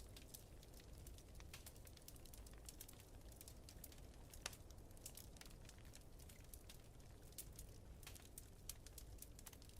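Wood fire crackling in a fireplace: a quick, irregular run of soft pops and snaps, with one sharper snap about four and a half seconds in, over a faint low rumble.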